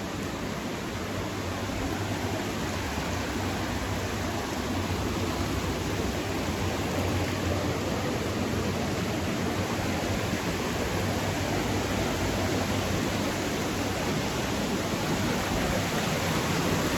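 Rushing water, a steady noise that slowly grows louder.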